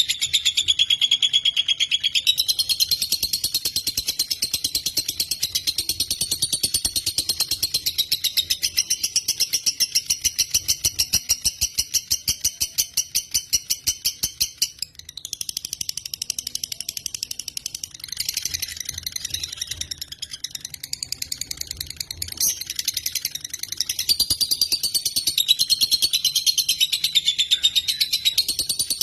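Lovebird (Agapornis) in a long chattering trill ('ngekek'), a fast unbroken run of high, shrill pulses. It breaks off briefly about halfway, goes on more softly, then grows loud again near the end.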